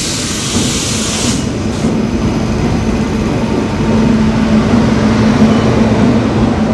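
Indian Railways electric locomotive and its coaches rolling slowly into the station, with a steady low hum and rumble. A high hiss cuts off about a second and a half in.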